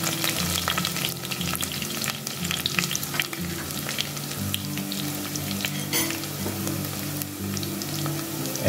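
Chopped onion and curry leaves sizzling in hot oil in a steel pot, with frequent small crackles and pops; a spoon stirs them briefly at the start.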